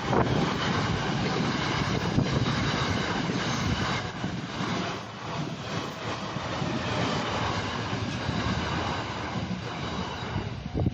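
Diesel train on the Kominato Railway passing close by, a loud steady rumble of engine and wheels on the rails.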